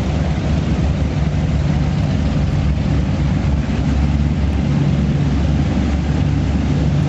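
Offshore powerboat engines running steadily: a deep, even drone with noise of wind and water over it.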